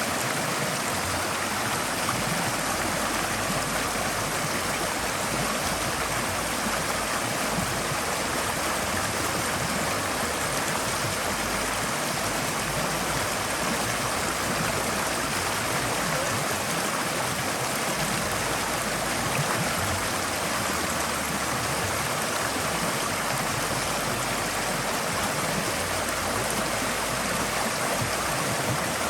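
Forest stream flowing over rocks: a steady, unbroken rush of water with gurgling.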